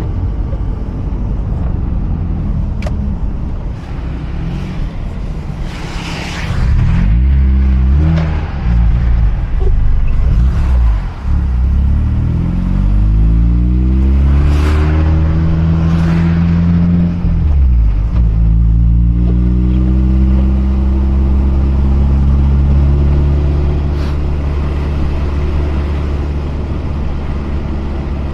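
Mazda RX-8's rotary engine pulling the car up through the revs, with the pitch climbing twice and dropping sharply once, as on a gear change, then settling to a steady cruise over continuous tyre and road noise.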